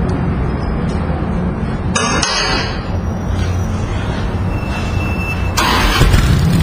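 Motorcycle engine running steadily with a low rumble, with a short clatter about two seconds in and a louder rush near the end, after which the engine sounds louder.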